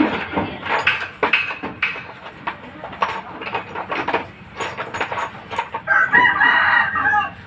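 A rooster crowing once, about six seconds in, a call lasting about a second. Before it comes a run of short, sharp clicks and knocks.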